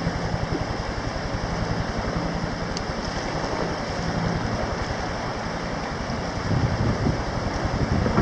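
Helicopter running steadily, its rotor giving a fast, even beat over a low hum, with rushing wind noise from the downwash.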